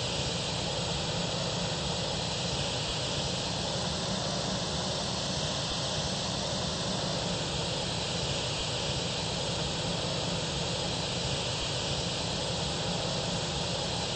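Steady, even rushing noise of an Airbus A320, its engines and airflow holding one level throughout with no change in pitch.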